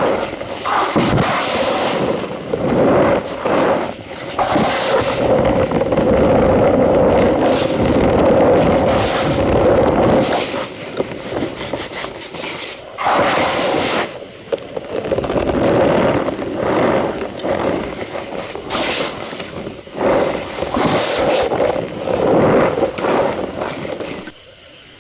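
Cornstarch powder being squeezed and crushed by hand close to the microphone: loud, repeated crunching and squeaking that eases off near the end.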